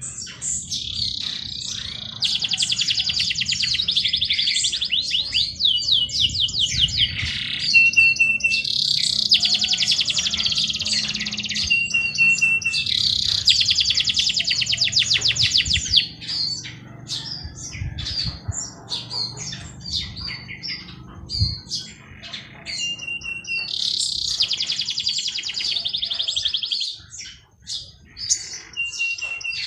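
Songbirds singing: long, fast trilled phrases of two to three seconds, repeated several times, with short high chirps between them.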